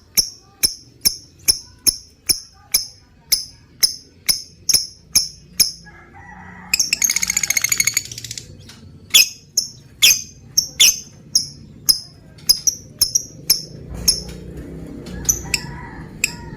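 Lovebird chirping in short, sharp, high calls about twice a second, breaking about seven seconds in into a rapid chattering trill of just over a second.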